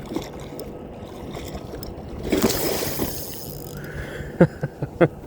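A splash of water lasting about a second, a little over two seconds in, then a few sharp knocks near the end, as on a kayak's hull.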